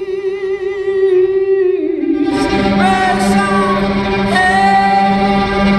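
Live pop-rock band music: a long held, wavering note glides down about two seconds in. New held notes follow over a steady low note.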